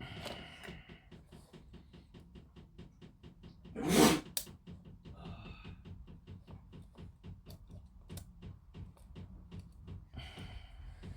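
Light plastic clicks and taps of small model-kit parts being handled and fitted, several a second, with one louder brief noise about four seconds in.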